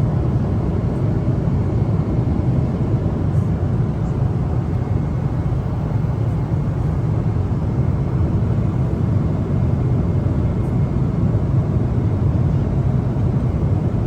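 Airliner cabin noise: a steady low rumble of engines and airflow, unchanging throughout.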